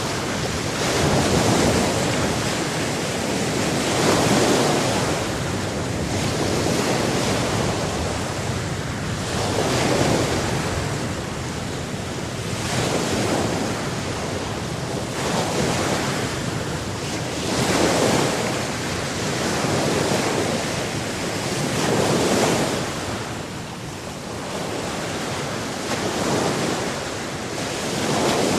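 Sea surf: waves breaking and washing in, a continuous rush of water that swells and ebbs every two to four seconds.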